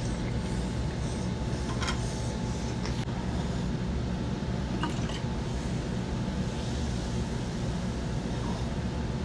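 Steady low hum of background room noise, with a few faint light clicks.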